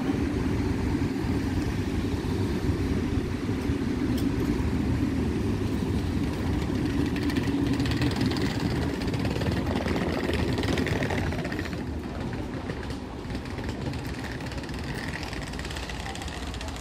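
VR Intercity passenger coaches rolling slowly past, a steady rumble of wheels on the rails with some hiss. The rumble eases off over the last few seconds.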